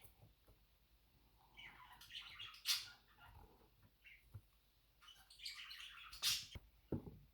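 Pet budgies (budgerigars) chirping in two short bursts of quick chirps and squawks, each with one louder, sharper call.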